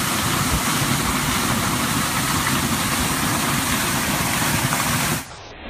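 Waterfall pouring: a loud, steady rush of falling water. About five seconds in it drops abruptly to a quieter, duller rush with the highest pitches gone.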